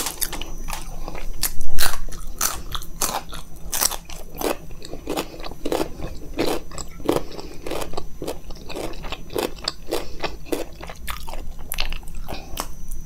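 Close-miked chewing of makki ki roti (maize flatbread) with sarson ka saag: wet mouth clicks and soft crunches at about two chews a second.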